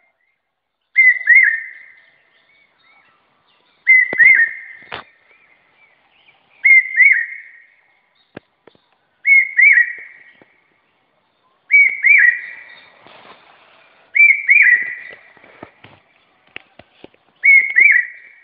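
A bird calling: a short, high, two-note whistled call repeated seven times, about every two and a half seconds, each fading away after it, with a few faint clicks in between.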